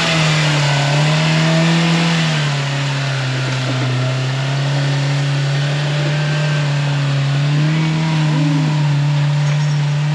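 Polaris RZR Pro R side-by-side's 2.0-litre four-cylinder engine running at a steady high pitch while driving, the pitch dipping and rising a little now and then, over wind and trail noise.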